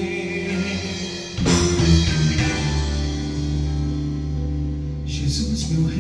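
Live band playing the closing instrumental bars of a Christian rock song, with electric guitar and bass holding chords; a new chord is struck about a second and a half in, and cymbal hits come near the end.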